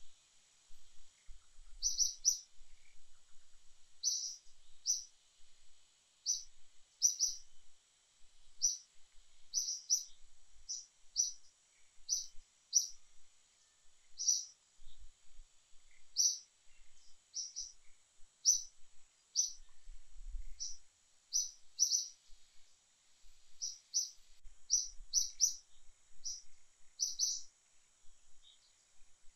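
A bird chirping again and again: short, high notes, singly or in quick pairs, about one or two a second, over a faint steady high-pitched hiss.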